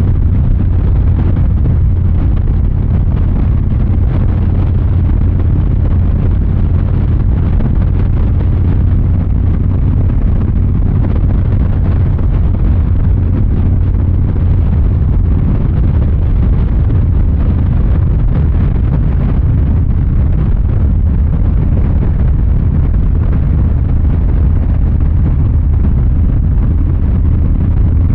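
2023 Harley-Davidson Fat Boy 114's Milwaukee-Eight 114 V-twin engine and exhaust running steadily with a deep, low rumble.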